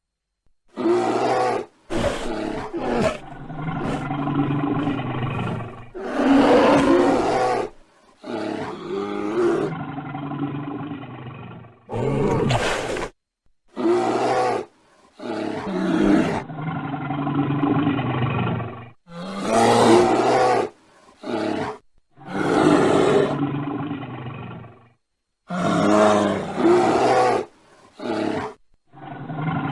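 Bear growling and roaring: about a dozen separate deep, rough growls, each one to four seconds long, with short silent gaps between them. The calls come from different recordings spliced together.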